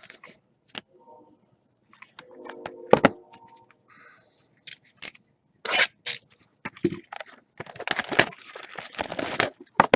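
Trading-card packaging being handled and torn: scattered clicks and short rustles, then about two seconds of tearing and crinkling near the end.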